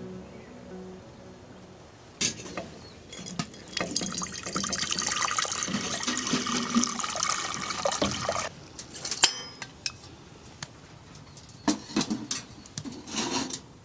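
Water pouring into a container for about four seconds, then stopping suddenly, followed by a few light knocks and clicks.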